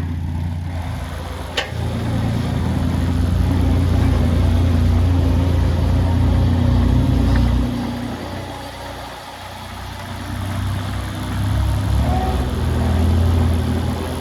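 Kubota KX015-4 mini excavator's three-cylinder diesel engine running, getting louder about two seconds in, easing off after about eight seconds, then picking up again near the end. A single sharp click comes just before the first rise.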